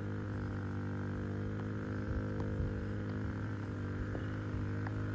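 Golf cart running at a steady speed, its motor giving a low, even hum, with a few faint ticks.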